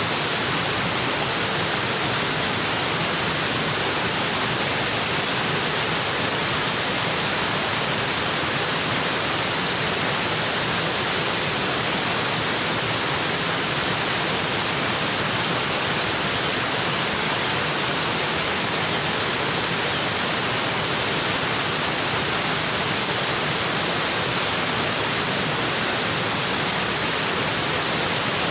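Waterfall: water falling and splashing onto rocks in a steady, unbroken rush.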